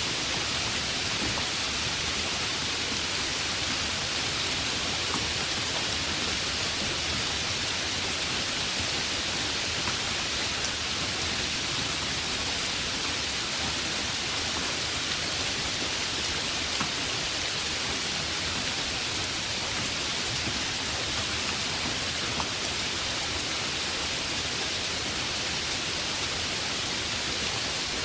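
Heavy rain falling steadily, an even hiss of downpour with small scattered drop ticks.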